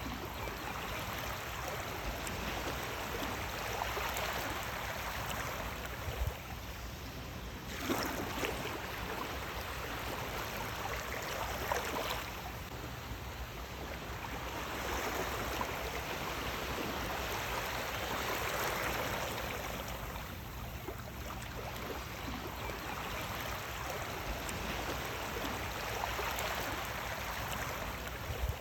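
Sea waves washing in and drawing back, the water noise swelling and easing every few seconds, with a few brief splashes.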